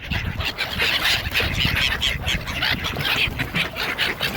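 A flock of hungry water birds calling over each other in a dense chatter of short, overlapping calls.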